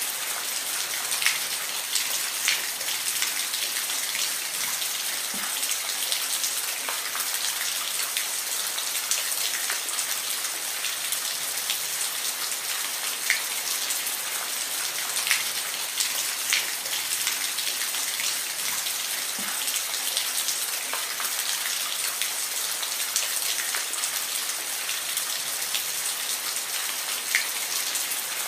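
Steady rain falling, an even hiss with scattered louder individual drops striking a surface.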